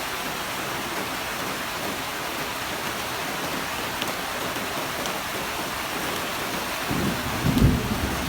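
Heavy rain falling steadily, with a short low rumble of thunder swelling up near the end.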